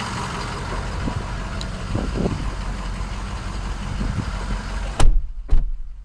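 Ford 6.0 Power Stroke turbo-diesel V8 idling steadily. About five seconds in come two loud knocks half a second apart, after which the engine is heard muffled, as if from inside the closed cab.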